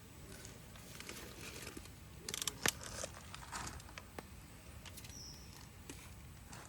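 Wood fire crackling: scattered sharp pops and soft rustles, with a quick cluster of clicks about two and a half seconds in.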